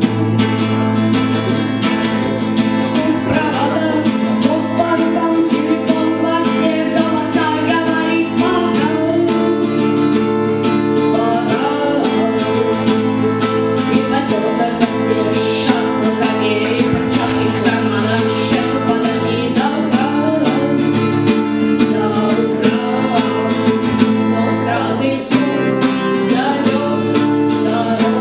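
Guitar music: guitars strumming at a steady, quick rhythm over held low notes, with a melody moving above.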